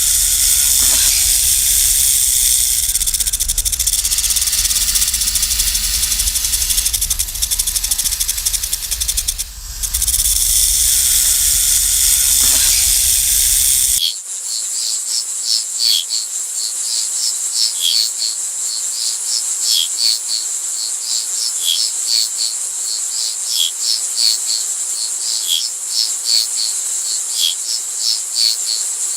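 Dense, high-pitched insect chorus with a low rumble under it. About halfway through it cuts abruptly to a different chorus: a steady high trill with regular chirps about two a second.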